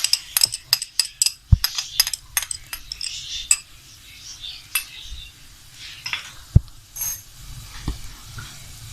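A metal spoon clinking and scraping against a kadai while garlic is stirred in hot oil, with a soft sizzle underneath. The taps come thick in the first few seconds and thin out after, with a couple of heavier knocks.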